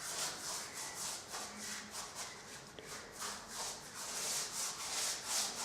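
Brush scrubbing varnish onto the carved surface of a fireplace in quick, regular strokes: a dry, scratchy rubbing repeated about three to four times a second.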